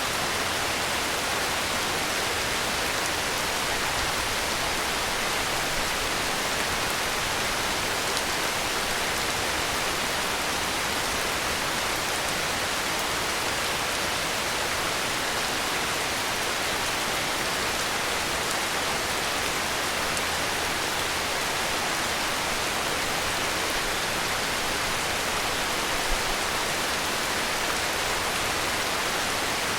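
Heavy rain falling as a steady, dense hiss with no rise or fall, no thunder and no other sound.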